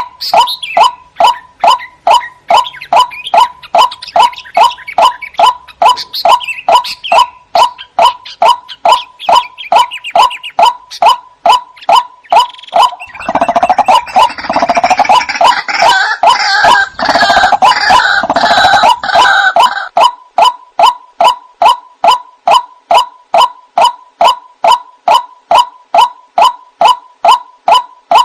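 White-breasted waterhen (ruak-ruak) calling: a monotonous single note repeated evenly about twice a second. From about halfway in, for some seven seconds, it breaks into a louder, harsher burst of rapid croaking calls, then returns to the even repeated note.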